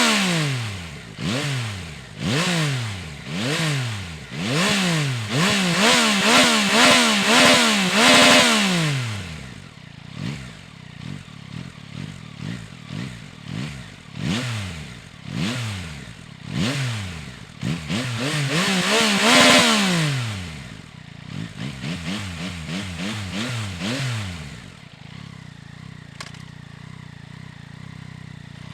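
Yamaha Tracer 9 GT+ motorcycle's three-cylinder engine revved over and over in quick rises and falls, with the loudest revs in the first third and one big rev past the middle. It then settles to a steady idle near the end.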